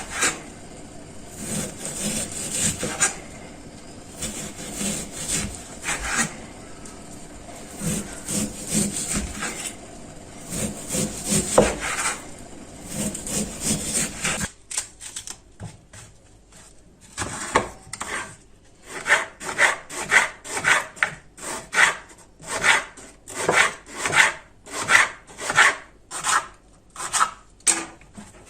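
Repeated back-and-forth strokes of a knife cutting through food on a wooden cutting board. About halfway through, the strokes settle into a steady rhythm of about two a second.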